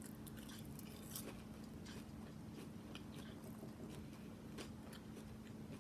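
A person chewing breaded mushrooms close to the microphone: faint, scattered wet mouth clicks and soft crunches.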